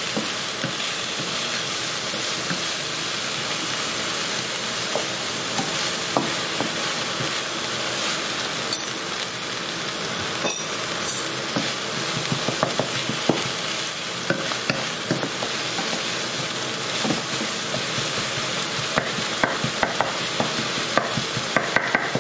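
Chopped onion sizzling in oil in a non-stick frying pan, with a wooden spatula scraping and tapping against the pan as it is stirred. The scraping and tapping come more often in the second half.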